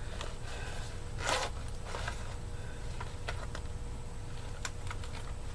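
Light clicks and a short scrape of hands working the cover off an air-conditioner contactor in the unit's control panel, over a steady low hum.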